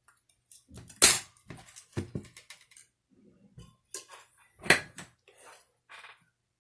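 Hand tools and small parts being handled on a workbench: a series of sharp clicks and knocks with scraping in between, the loudest about a second in and again near the end.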